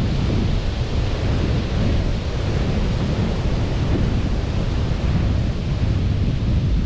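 Sea surf washing steadily on a beach, heard as a continuous rush with a deep rumble underneath and no distinct breaks.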